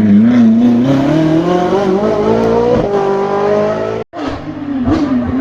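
Race car engine accelerating hard, its pitch climbing steadily for nearly three seconds until an upshift drops it. The sound cuts out for an instant just after four seconds, then the engine runs on at a lower pitch.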